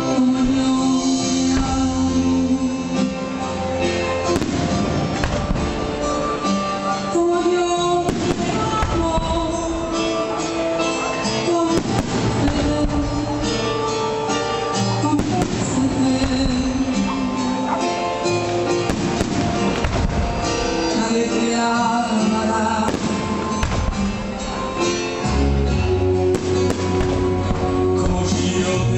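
Music with melody and singing, mixed with the bangs and crackles of aerial fireworks bursting.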